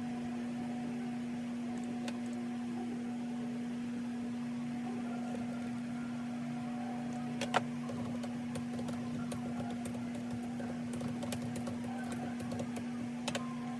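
A steady, even mechanical hum, with a couple of sharp clicks about halfway through and near the end.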